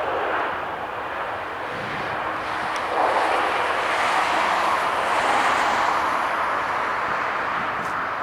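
Jet airliner engines passing, a steady rushing noise that grows louder about three seconds in and then slowly eases.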